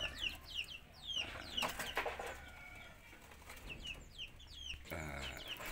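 Caged birds calling: many short, high, falling chirps in quick clusters.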